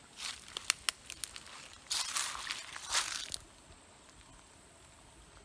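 Footsteps crunching and rustling through dry leaves and twigs on the forest floor, with a few sharp snaps in the first second and a denser crunch from about two seconds in, stopping after about three and a half seconds.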